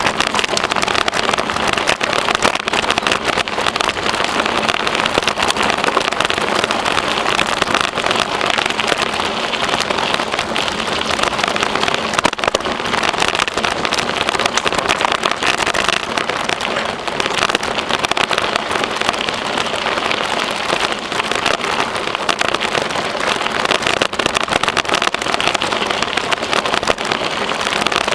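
Steady riding noise from a bicycle: tyres rolling over a rough trail surface and wind on the microphone, with frequent small clicks and rattles.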